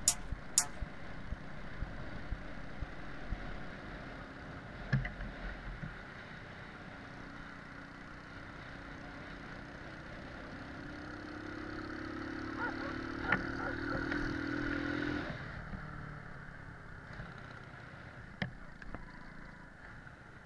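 Small moped engine running faintly, its note rising from about ten seconds in and cutting off suddenly a few seconds later, with a few sharp knocks and clatters.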